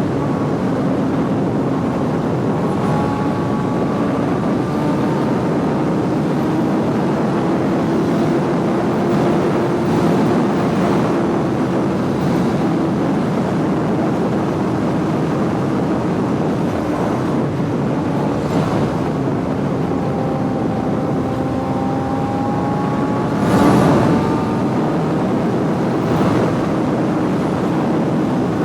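Suzuki GSX-R sportbike engine running while riding at a fairly steady pace, its note drifting gently up and down in pitch over a rush of noise. There is a brief louder swell about 23 seconds in.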